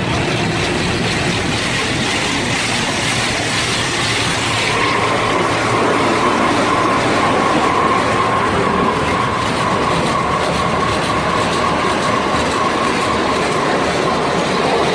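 Automatic car wash machinery running: a steady, loud rushing rumble, with a steady whine coming in about four and a half seconds in.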